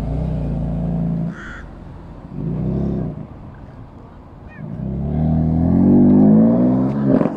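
High-performance car engine revved hard in three bursts: a steady pull, a short blip, then a long rising rev that is the loudest and cuts off sharply near the end.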